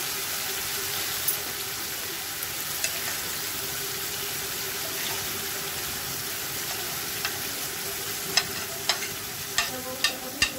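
Chopped tomatoes frying in oil in a frying pan, a steady sizzle as they soften, with a silicone spatula stirring them. A run of sharp clicks and taps comes in the last couple of seconds.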